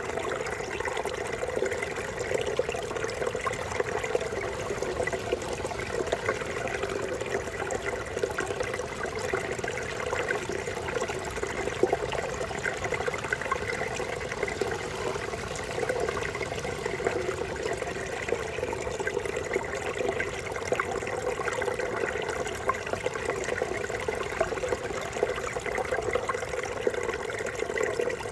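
Brook babbling steadily: running water burbling and trickling at an even level.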